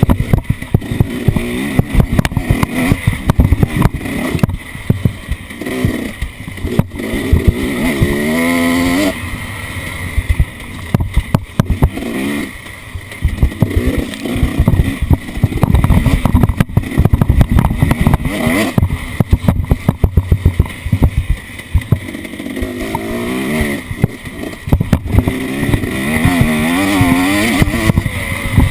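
Off-road vehicle engine running and revving up and down, its pitch wavering repeatedly, over a constant clatter of knocks and thumps.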